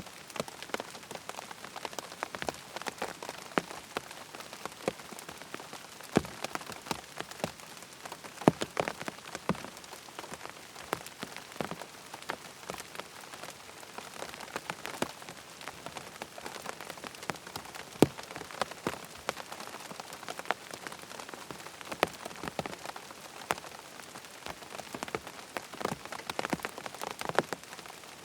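Steady rain pattering on tent fabric, with many separate sharp drop impacts standing out against a dense hiss of lighter drops.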